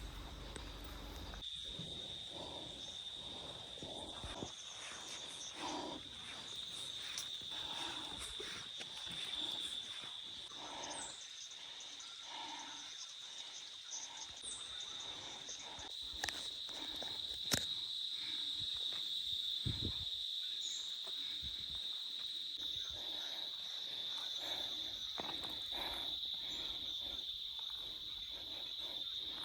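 Insects chirring outdoors in a steady high-pitched drone, with a few faint scattered knocks and rustles.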